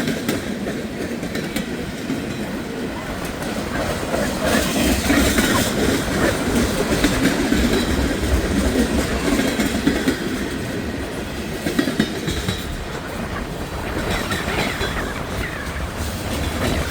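Long freight train's cars rolling past, wheels clicking over jointed rail, with an occasional faint wheel squeal. Strong gusting wind buffets the microphone.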